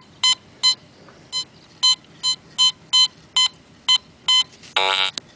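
Garrett AT metal detector giving a string of short, high beeps, about two to three a second and unevenly spaced. Near the end comes one louder, lower, longer tone.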